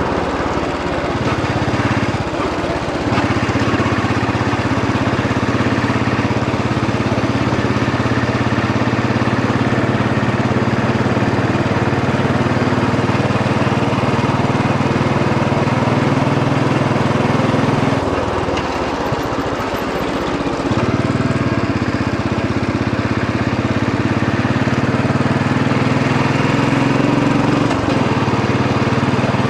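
Royal Enfield Bullet 500 EFI's single-cylinder engine running steadily under way, recorded from the rider's position. The engine note breaks and changes briefly about two seconds in, and again for a few seconds past the middle, as the rider shifts or changes throttle.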